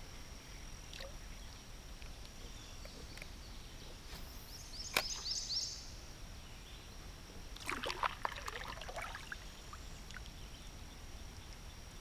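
Quiet creek-side ambience with a steady high-pitched whine. A sharp click comes about five seconds in, and a short burst of splashing and sloshing water follows about three seconds later.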